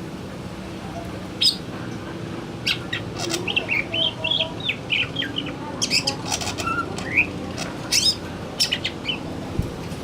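Male cucak ijo (green leafbird) singing: a fast, varied run of sharp chirps and warbled notes starting about a second and a half in, over a steady low hum.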